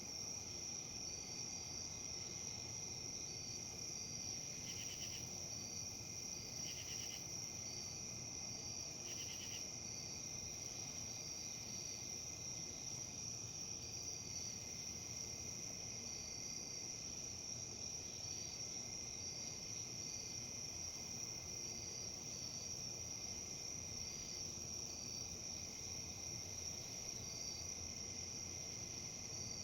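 Steady high-pitched chorus of crickets or similar insects with short chirps repeating every second or so, and a brief trill three times in the first ten seconds. Underneath is a soft, even rustle of wind in leaves.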